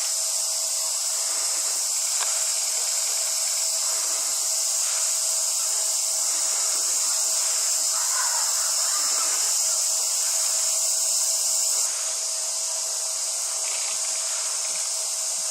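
A dense, steady chorus of cicadas, shrill and unbroken, with a faint steady hum beneath it.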